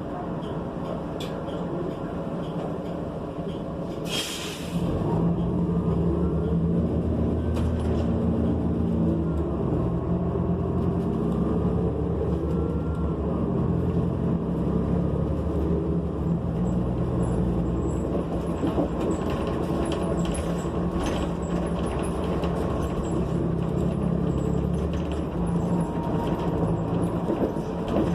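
Inside a New Flyer XN40 bus: a short burst of air hiss from the air brakes about four seconds in. Then the Cummins Westport ISL G natural-gas engine and Allison B400R automatic transmission pull the bus away and accelerate, the drone stepping in pitch through several gear changes before settling at cruise.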